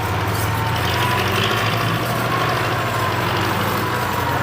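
Tractor's diesel engine running steadily at a low, even speed, with a faint high whine above the hum.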